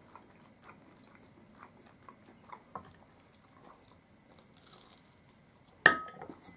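Quiet chewing and small mouth clicks of people eating flaky puff pastries, with a soft sip from a mug around the middle. Near the end comes a single sharp clink with a short ring: a ceramic mug set down on its plate.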